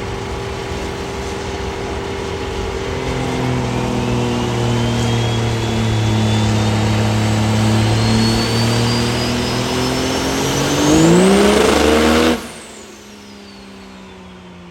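High-horsepower diesel truck engine making a full-throttle dyno pull: the engine note and a turbo whistle climb steadily in pitch and get louder. About twelve seconds in, the throttle lifts and the sound cuts off suddenly, leaving a quieter falling whine as it winds down. The run sounded solid and read about 2172.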